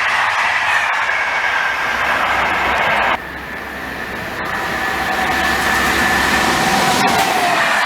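A train passing close: a loud rush of wheels on rail with a high whine that falls slightly in pitch. About three seconds in, the sound drops off abruptly, then builds again with a low rumble and a lower whine that falls in pitch near the end.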